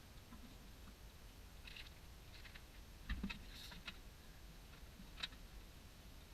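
Faint, scattered clicks and light knocks over a low background rumble, with a few near two seconds in, a cluster with a low thump about three seconds in, and one more click about five seconds in.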